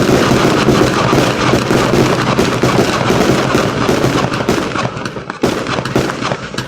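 Fireworks going off in a dense, rapid barrage of bangs and crackles that thins to separate bangs near the end, as at the close of a show.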